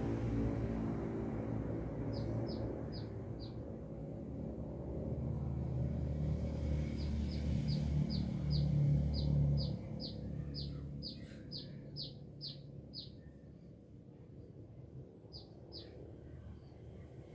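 A sunbird (the bird Indonesians call 'kolibri') singing 'gacor': runs of short, sharp, high chirps that drop in pitch, several a second. There are a few about two seconds in, a longer run of about a dozen that grows louder over the middle, and two more near the end. A low rumble underneath fades out in the first half.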